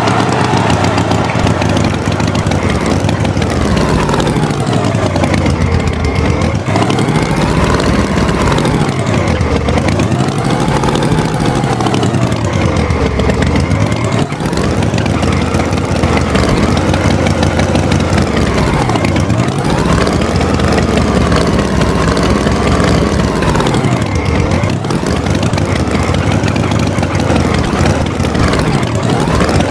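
Vehicle engine running continuously, its pitch repeatedly dropping and rising again every few seconds as it revs down and up.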